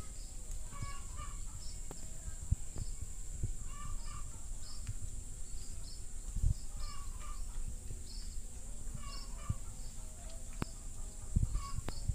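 Birds calling over and over in short repeated phrases, with a steady high-pitched drone behind them.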